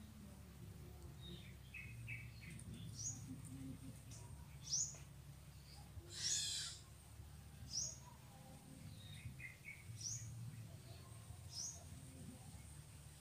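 Birds calling in forest: short high chirps that drop in pitch, repeated every second or two, with small clusters of lower notes between them. A louder, harsher call comes about six seconds in.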